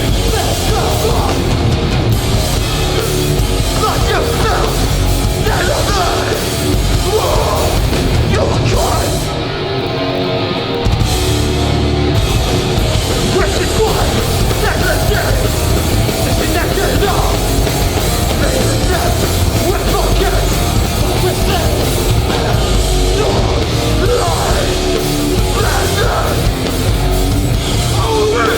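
Hardcore band playing live at full volume: distorted guitars, bass and drums, with shouted vocals. About nine seconds in, the bass and drums drop out for roughly two seconds, leaving a thinner, quieter passage, before the full band comes back in.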